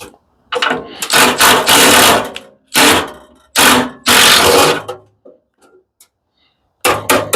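Impact driver run in four short bursts of rapid hammering, the first the longest, with a low motor hum trailing off after some of them.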